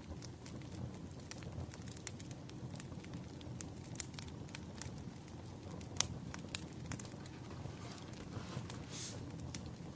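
Firewood burning with irregular sharp crackles and pops over a low, steady rumble of flame, and a brief hiss near the end.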